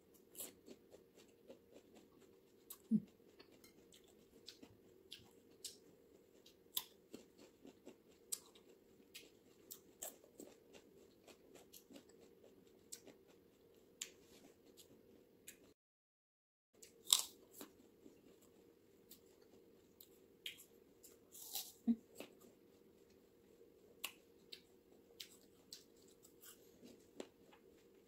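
Fruit being chewed: a run of small irregular clicks and crunches from the mouth, a few of them louder, with the sound cutting out completely for about a second midway.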